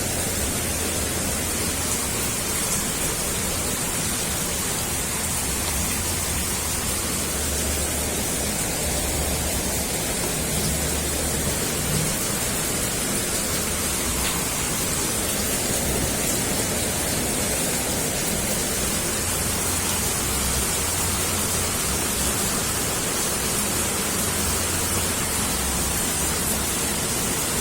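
A steady, even hiss with a low hum underneath, unchanging throughout and with no distinct events.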